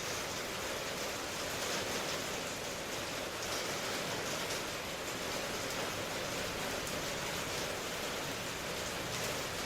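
Steady rain: a dense, even hiss with faint patter of drops and no change in strength.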